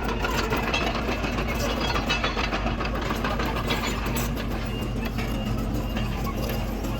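Komatsu D31PX bulldozer's diesel engine running steadily with a constant low hum, and a scatter of light metallic clinks and clatter over it.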